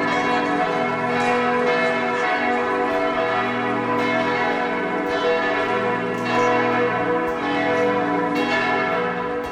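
Church bells ringing, several bells sounding at once with fresh strikes every second or two over their lingering ring.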